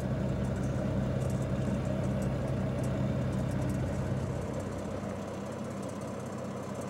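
Truck engine idling steadily, its low hum easing off about four seconds in.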